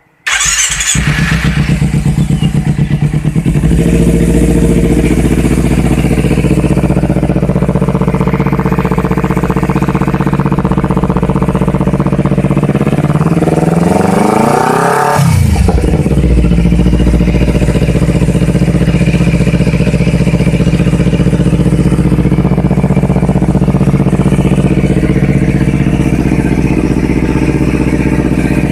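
Kawasaki Ninja 250 with an aftermarket racing exhaust muffler, starting up suddenly and then idling loudly. About halfway through the engine is revved once, rising in pitch over a few seconds, then drops sharply back to idle.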